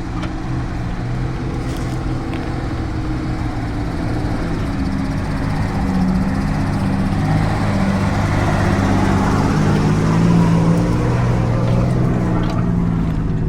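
Nissan Patrol's petrol straight-six engine pulling a 4WD up a steep, rutted dirt climb, its revs and loudness climbing gradually over the second half.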